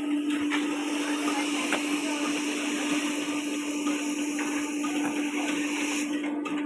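Small electric motor running with a steady hum under a loud hissing rush; the hiss cuts off about six seconds in while the hum goes on.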